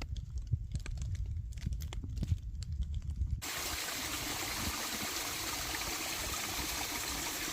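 Low wind rumble on the microphone with scattered small knocks, then after an abrupt change about three and a half seconds in, a steady even hiss of rain.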